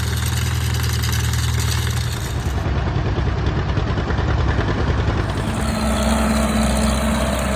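A vehicle engine idling steadily, its low hum shifting slightly about two seconds in and again past the middle.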